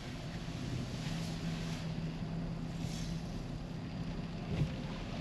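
Car cabin noise while driving: a steady low rumble of engine and tyres with a faint hum, and a couple of brief knocks near the end.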